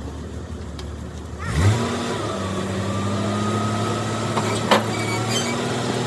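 A motor runs at a low speed, speeds up about one and a half seconds in, then runs steadily at the higher speed, with a single sharp click later on.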